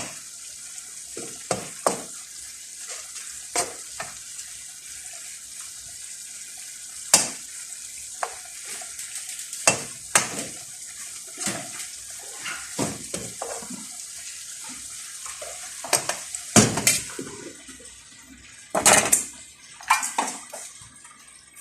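Kitchen utensils clinking and knocking against pots and dishes, in irregular strikes, over a steady hiss that fades out near the end.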